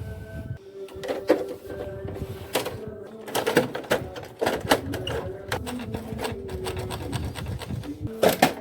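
Canon imageRUNNER office copier running: a steady motor hum with many irregular clicks and clacks.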